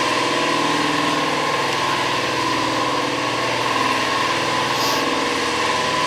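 A small motor running steadily with a constant whine, as from a power tool or compressor in a workshop.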